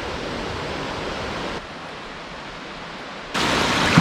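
Steady rushing of running water, like a stream or cascade. Its loudness jumps abruptly twice, once down and then up.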